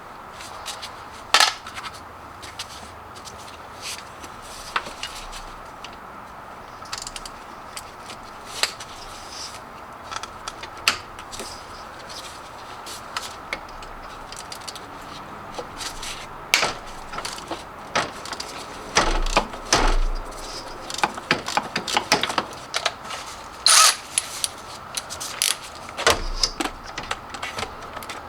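Hand tools clinking and knocking against metal while a car's starter motor is unbolted: irregular sharp clicks, sparse at first and busier in the second half, over a faint steady high tone.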